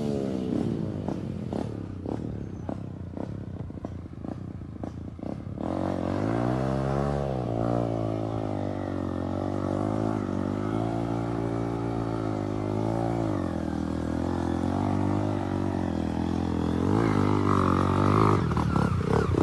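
A small trail motorcycle engine runs at low revs with irregular knocking for the first few seconds, then revs up and down over and over as the bike works through a mud bog.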